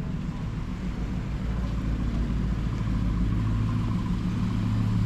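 A car engine running with a low rumble and a steady tone, growing louder about halfway through as it draws nearer.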